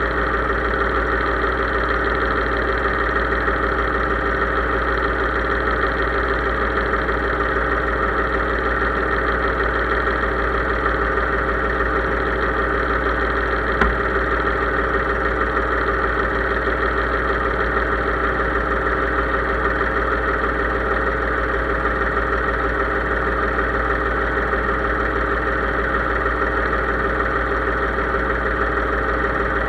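Case IH 3220 tractor's diesel engine running at a steady speed, with a single brief click about halfway through.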